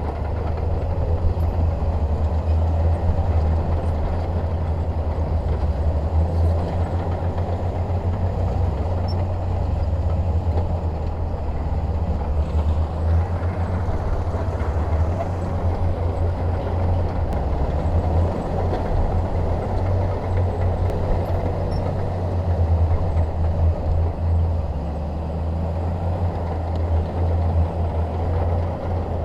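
Shantui DH17 bulldozer's diesel engine running steadily, a deep, low, even sound with no pauses.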